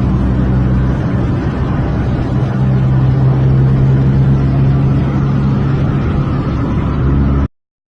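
Off-road vehicle's engine running at a steady speed, with noise from the vehicle's movement over it. It cuts off suddenly near the end.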